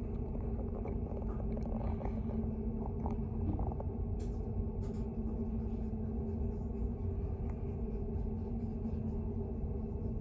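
Steady low rumble with a constant hum, heard from inside a running vehicle, with a couple of faint clicks about four to five seconds in.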